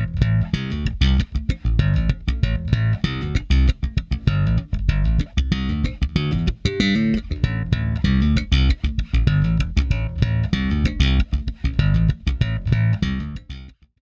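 Bass guitar playing a busy plucked line, run through a dbx 160-style VCA compressor. It cuts off abruptly near the end.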